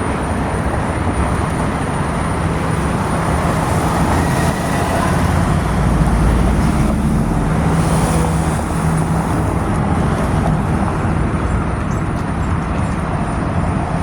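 Steady road traffic noise with an engine running close by; the low rumble swells about five seconds in and eases after eight.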